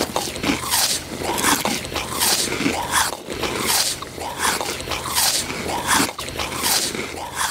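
Rhythmic chewing and crunching, a crunch about every three-quarters of a second, like an animal eating dry food.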